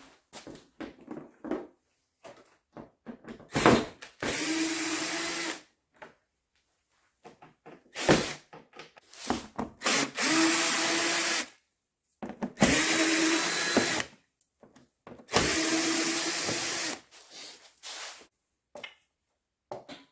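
A power drill/driver running in four short bursts of about a second and a half each, backing out the screws that hold a car's front bumper cover, with small clicks and rattles of handling between the bursts.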